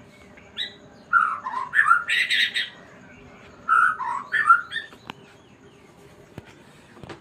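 White-rumped shama (murai batu) singing two short phrases of whistled, sliding notes, each about a second and a half long, the first with a harsh rasping note in its middle.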